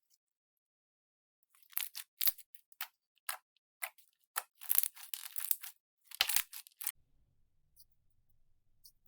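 Slime being squeezed and pressed by hand, giving a run of sharp crackling pops and crunches that starts about a second and a half in and stops about seven seconds in.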